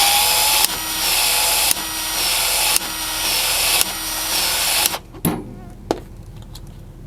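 Small power tool motor running loudly in five back-to-back spells of about a second each, stopping about five seconds in.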